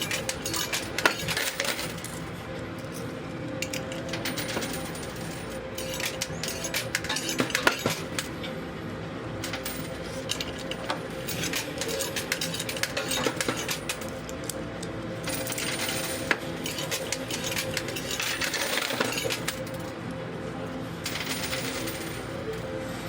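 Quarters clinking and tumbling in a coin pusher machine, in bursts of many small metallic clicks as coins drop onto the moving playfield and against each other, over the machine's steady hum.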